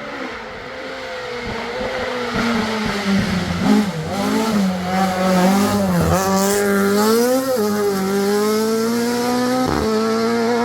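Rally car engine at high revs, growing louder over the first few seconds as the car comes closer, with the pitch dropping and climbing again several times as the driver lifts and shifts gear.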